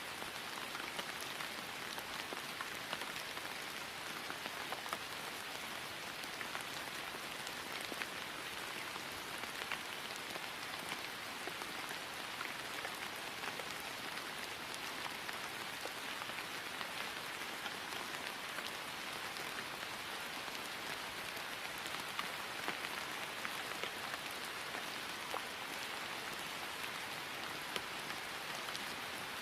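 Steady rain falling on grass: an even hiss of rainfall with many small, scattered drop ticks.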